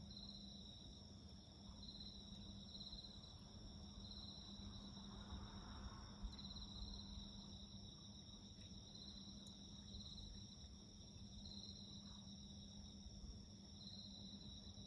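Faint crickets calling: one steady high trill under a second chirping call that pulses about once a second. A wood fire gives a single sharp pop about six seconds in.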